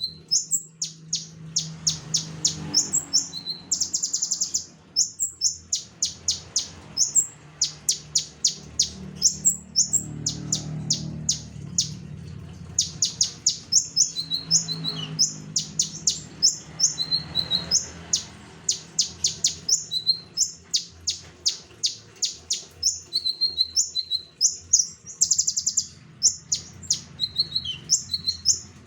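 A konin songbird singing vigorously and without pause: a fast, continuous run of short, high, sharp notes with occasional trilled phrases.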